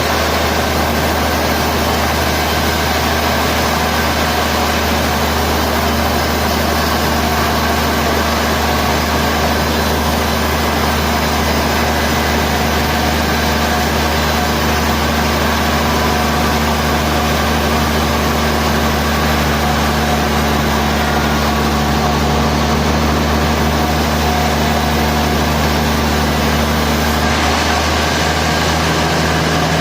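Sawmill machinery running steadily with a constant engine-like hum; its pitch shifts slightly near the end.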